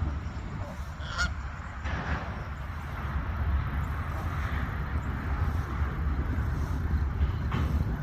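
Birds calling: a short call about a second in, another about a second later and one more near the end, over a steady low rumble.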